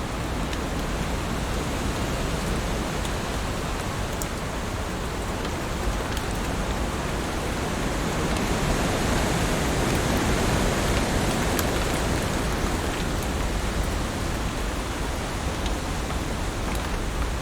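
Heavy rain falling in a steady dense hiss with occasional faint drop ticks, swelling slightly louder midway.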